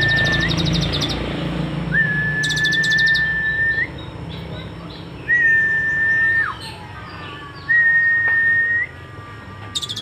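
Sunbird singing: long, level whistled notes, each about a second long with a short upturn or drop at the end, alternating with short, very high, rapid trills.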